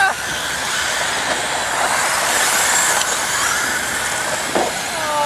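RC stadium trucks racing around the track: a steady, high-pitched whirring hiss of their motors and tyres, swelling and easing a little as they pass.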